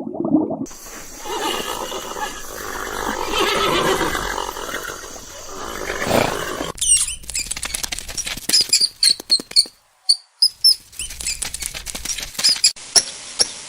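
Animal calls: a long pitched call in the first half, then several seconds of sharp clicks and knocks with short breaks.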